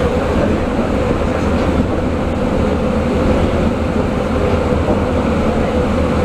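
Steady running noise of a diesel train heard from inside the carriage while under way: a low rumble from the wheels and engine with a constant hum over it.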